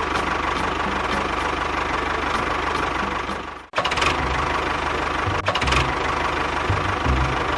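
Small motor of a model tractor or bulldozer running steadily with a low rattle; the sound drops out abruptly for a moment about halfway through, then carries on.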